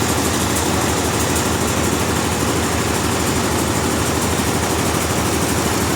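A sawmill's engine idling steadily, with a fast, even pulse.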